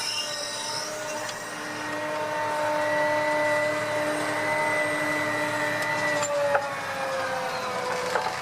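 John Deere 8360R tractor running steadily under ploughing load, with a steady whine of several held tones that fades about three-quarters of the way through. A sharp click follows shortly after, and another near the end.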